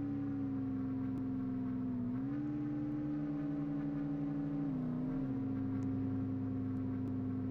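Car engine running at a high idle, its pitch rising slightly about two seconds in, holding, then settling back down about five seconds in.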